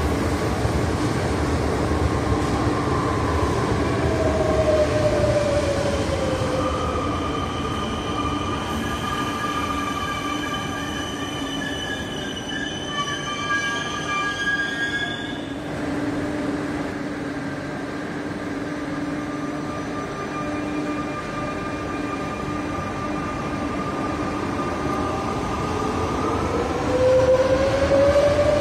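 Alstom Minuetto multiple units in an underground station. One slows to a stop with a falling whine and high wheel and brake squeal, then stands humming. Near the end a Minuetto pulls away with a rising whine.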